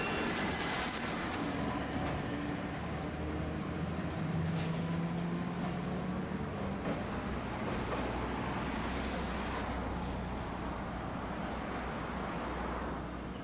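Tosaden streetcar running, heard from inside the car: a steady rumble of wheels and running gear, with a low steady tone that comes in about four seconds in and fades a couple of seconds later.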